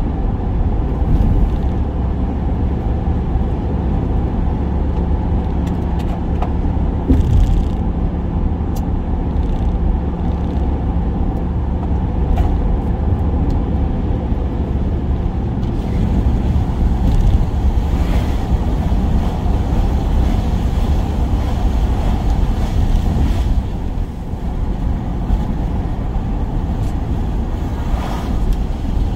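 Van engine and road noise while driving: a steady low rumble with a few brief swells.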